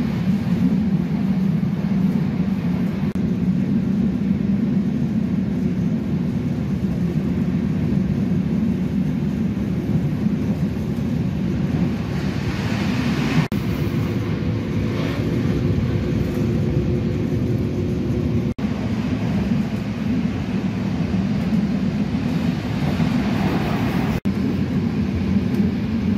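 Steady low rumble of a diesel regional train running, heard from inside the carriage, growing hissier for a few seconds about halfway through.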